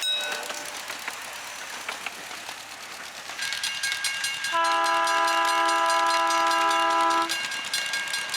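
A train whistle sounds one long chord of about three seconds over the running and rail clatter of the moving train.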